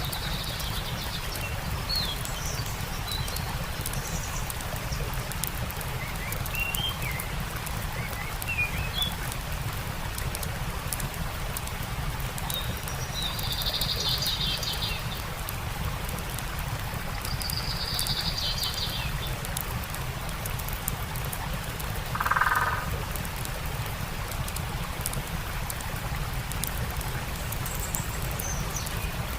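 Steady rush of a stream with a campfire crackling, and songbirds calling over it: short chirps, two trills near the middle, and a louder, lower pulsed call about three-quarters of the way through.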